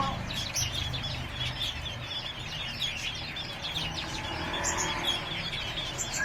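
Many small birds chirping at once in a dense, continuous chatter of short high calls, over a steady low hum.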